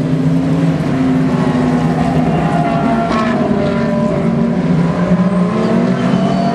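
GT race car engines running hard on a circuit. Several engine notes overlap and rise and fall in pitch as the cars accelerate, shift and pass.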